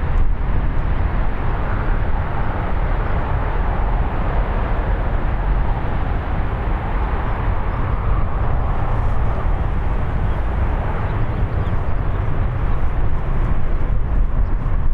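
Boeing 737-800's CFM56 jet engines running at power as the airliner departs, a steady broad roar that swells slightly midway, with wind rumbling on the microphone.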